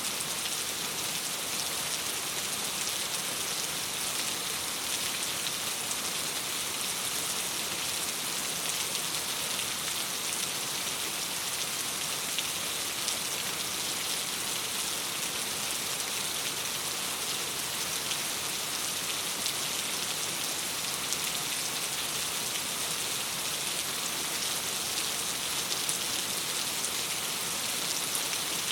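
Steady rain pattering on a window glass, an even hiss of drops with a few faint ticks scattered through it.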